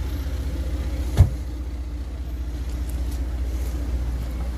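A vehicle engine idling, a steady low rumble with an even fast pulse. A single sharp knock about a second in.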